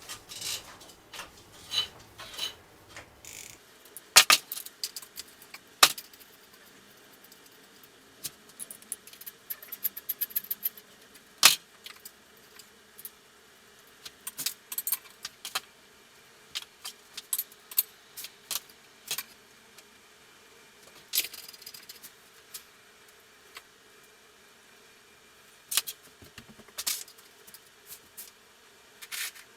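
Hand tools and small metal parts clinking and clattering at irregular intervals while the oil cooler is unbolted from the engine, with a quick run of rapid clicks about nine seconds in.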